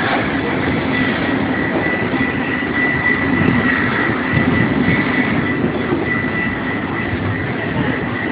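A train passing close by at a railroad crossing: a loud, steady rumble of rail noise with a continuous high-pitched tone over it.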